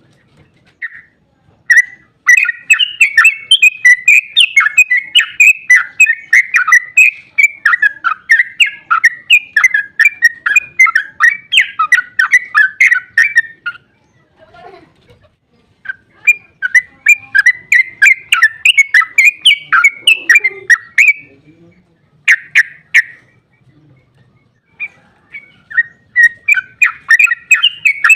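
Yellow-vented bulbul (trucukan) singing its long, rapid, bubbly chattering song, loud and sharp-edged. It comes in long runs broken by pauses of a second or two: one runs for about twelve seconds, another for five, with a short burst in between and a new run starting near the end.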